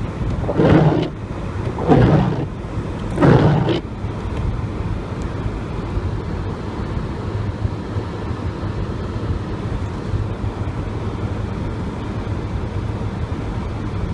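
Steady low rumble of a car driving, heard from inside the cabin, with tyre and road noise on a snow-covered road.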